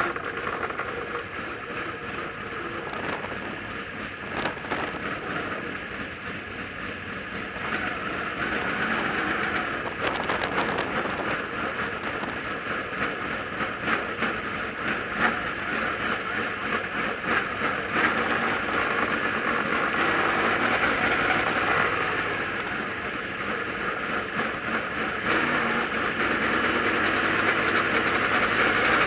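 A car driving on the road: continuous engine and road noise, a little louder after about eight seconds.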